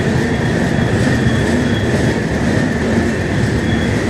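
Passenger train rolling slowly along a station platform, heard from on board: a loud, steady rattle and rumble of wheels on rails, with a thin, steady high squeal above it.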